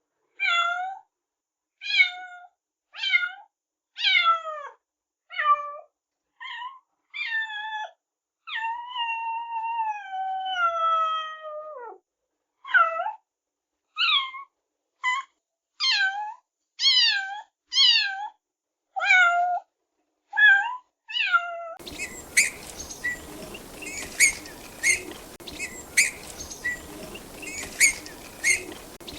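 A cat meowing over and over, a long run of short falling meows with one long drawn-out meow in the middle. About three-quarters of the way through it cuts to a steady hiss with short high chirps repeating.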